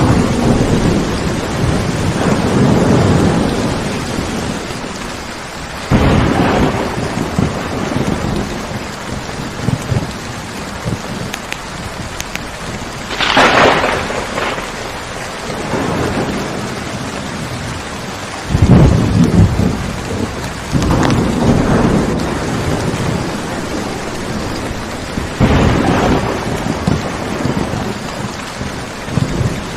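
Steady rain with thunder rumbling again and again, a low swell every few seconds, and one sharper, brighter crack about halfway through.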